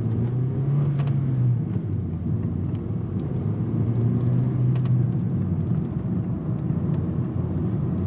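2009 Honda Civic's 1.8-litre petrol engine pulling the car away, heard from inside the cabin over road rumble. The engine note climbs twice with a short drop between, as in a gear change.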